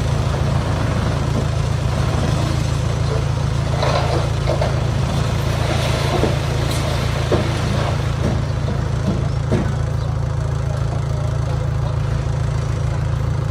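Heavy diesel engine running steadily at a constant speed, with a few faint knocks and rattles in the middle.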